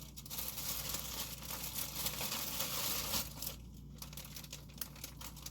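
Plastic snack wrappers crinkling as they are handled: a continuous rustle for about three seconds, then a few lighter, scattered crinkles.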